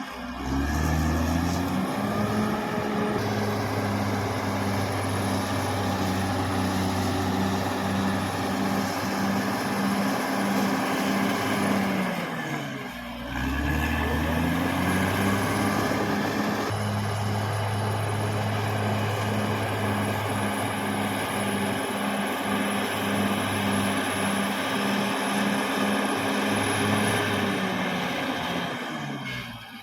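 Caterpillar D6R XL bulldozer's diesel engine working under load with a steady, rhythmic pulse. About 13 seconds in, and again near the end, the engine speed drops and then picks back up.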